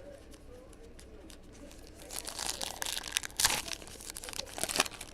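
Plastic card packaging and trading cards being handled, crinkling and rustling, starting about two seconds in.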